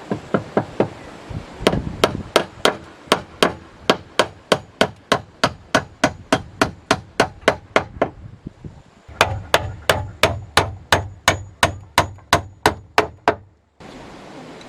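A hammer striking in quick, even strokes, about three a second, with a pause of about a second midway, then stopping abruptly near the end.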